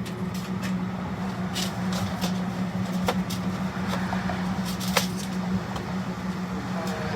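Steady mechanical hum at one low pitch, like a running fan or generator, with a few light clicks and knocks scattered through it.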